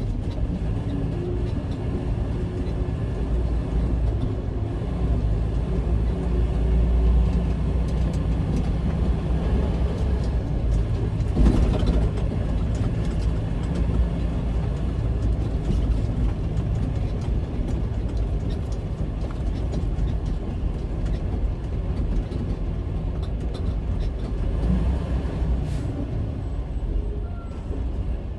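Semi-truck's diesel engine running and road noise while driving, with a short louder knock about a third of the way in.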